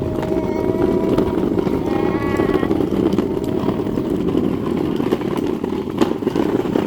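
Steady vehicle engine and road noise heard from on board while riding over a bumpy road, with a sharp click about six seconds in.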